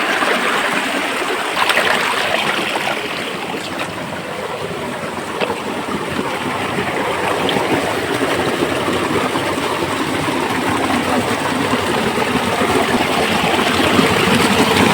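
Stream water running over rocks: a steady rushing, with a few faint clicks.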